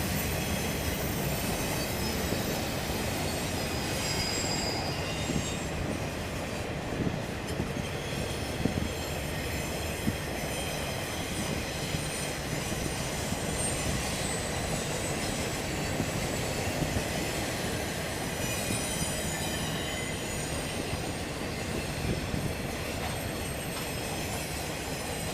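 Freight train cars rolling past, a steady rumble with high wheel squeal that comes and goes, and now and then a sharp click from the wheels.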